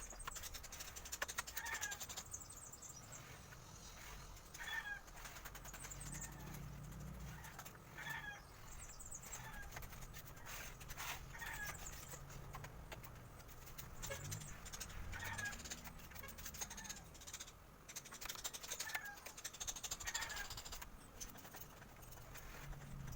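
Faint, short chirping calls of a bird, repeated every second or two, with faint scraping in the background.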